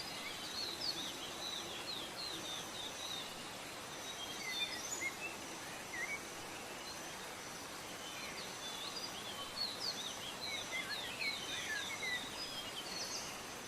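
Blue-crowned hanging parrot (serindit) giving quick, thin, high-pitched chirps in busy runs, with a quieter gap in the middle, over a steady background hiss.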